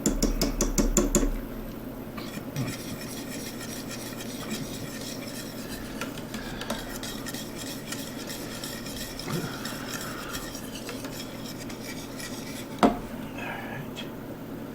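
Wire whisk stirring a thickening flour roux in a metal pot, clicking rapidly against the pot for the first second or so, then scraping more steadily, with one sharp knock near the end. The roux is being cooked down to work out the lumps.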